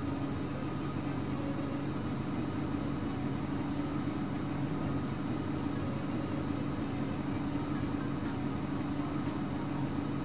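A vehicle engine running steadily at idle, with no rise or fall in pitch.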